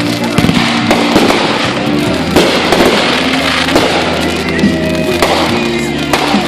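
Fireworks going off in a rapid series of sharp bangs and crackles over music playing alongside the show.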